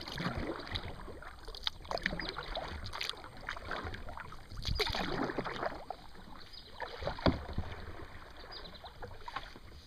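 Kayak paddle strokes swishing through the water of a narrow river, with a few sharp knocks along the way.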